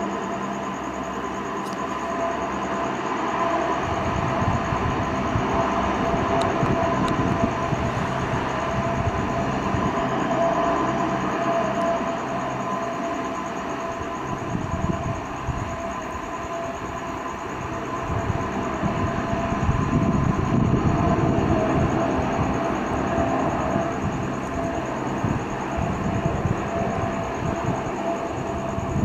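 Military jet engine ground run-up: a steady roar with a constant whine and a deep rumble that swells and eases, twice louder for several seconds.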